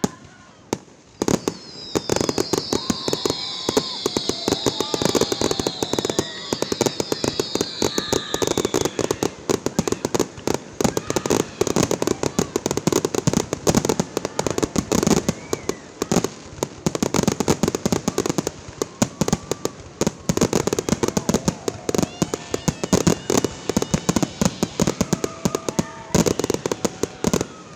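Fireworks display: a rapid barrage of bangs and crackles starting about a second in, with a high shrill whistle from about two to nine seconds in.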